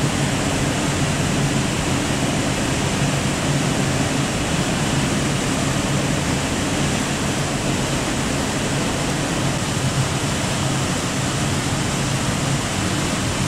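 Athabasca Falls' water pouring into its rock gorge: a steady, unbroken rush of falling water.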